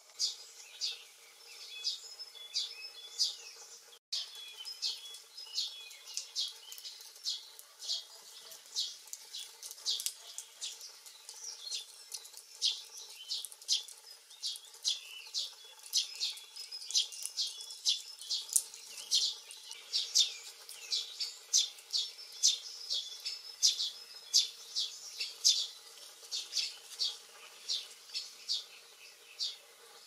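Small birds chirping: short, high chirps, several a second in an irregular stream, over a faint steady hiss. The sound cuts out for an instant about four seconds in.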